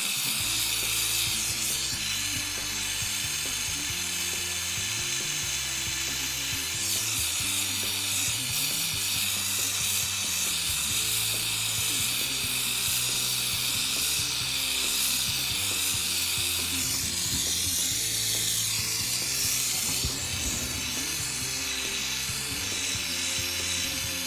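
A jeweler's gas torch hisses steadily as it heats a fluxed sterling silver joint for soldering. Music plays underneath, probably from a radio.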